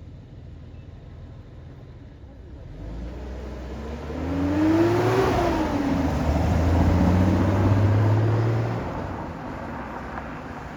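A car drives past with its engine running. It grows loud about a third of the way in, with a pitch that rises and then falls, and fades near the end.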